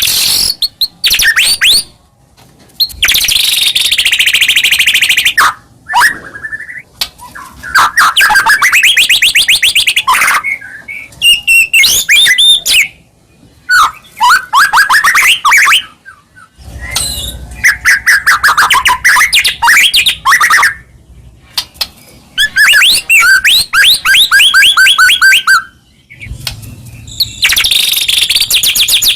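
White-rumped shama (murai batu) singing loud, varied phrases of very fast rattling trills and sweeping whistled notes, with short pauses between phrases.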